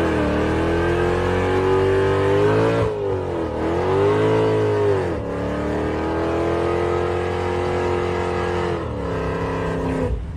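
Car engine revving hard, its pitch dipping and climbing back twice, then held high before dropping near the end.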